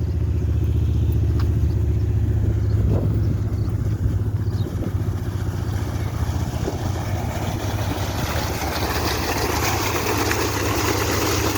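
Two-cylinder 22 hp Deutz diesel engine running steadily while it pumps water under pressure. A rushing noise grows louder through the second half.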